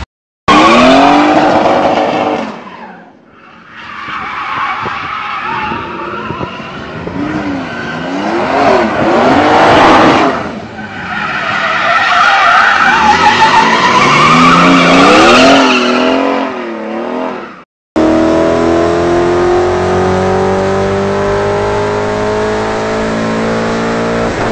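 Engine-swapped Nissan Skyline R33 drifting: its engine revs rise and fall hard under throttle, with tyres squealing and skidding, and there is a brief lull a few seconds in. Near the end the sound changes to a VW Transporter van with a swapped-in Audi RS4 V8, running under load with its revs climbing steadily.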